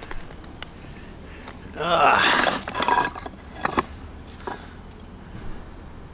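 Scrap granite pieces clinking and knocking against each other as they are handled. There is a loud scraping clatter about two seconds in, then a few single sharp knocks.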